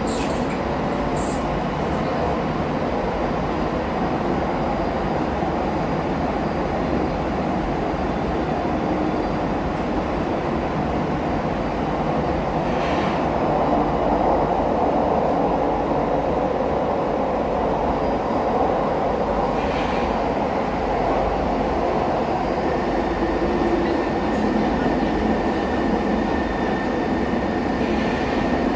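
KVB B80D light-rail car under way: steady rolling and traction-motor noise from the car's old motors, fed by a new traction converter. It gets louder about halfway through, and a faint steady high tone is heard over it in the last few seconds.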